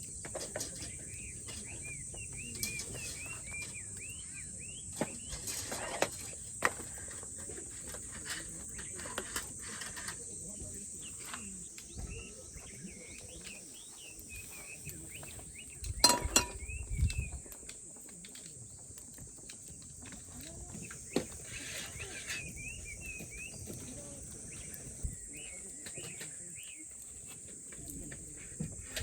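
Outdoor ambience with a steady high insect drone and repeated bird chirps. Occasional clinks and knocks of cookware and utensils are heard, the loudest about sixteen seconds in.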